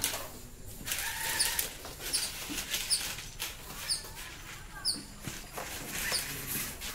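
Small birds chirping repeatedly in short, high notes, with scattered clicks and knocks of handling throughout.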